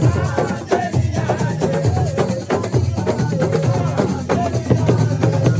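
Live assiko music: hand drums and shaken rattles playing a dense rhythm, with voices singing over them.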